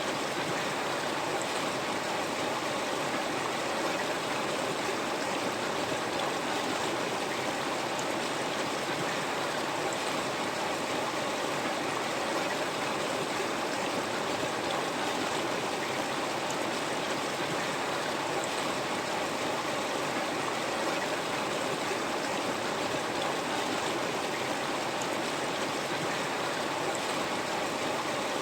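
River water flowing over rocks: a steady rushing and burbling that stays even throughout.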